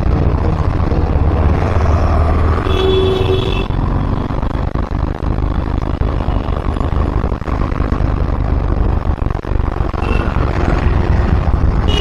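Steady city road traffic noise heard from a moving vehicle, a heavy low rumble like wind on the microphone. A vehicle horn sounds for about a second, about three seconds in.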